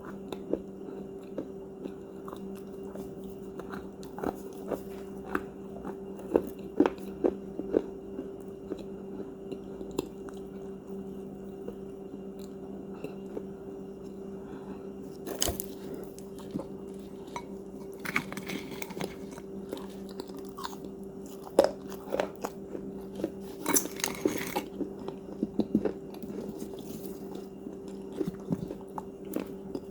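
A person biting and chewing crunchy cookies close to the microphone: sharp crunches and crackles throughout, busiest near the middle and toward the end, over a steady low hum.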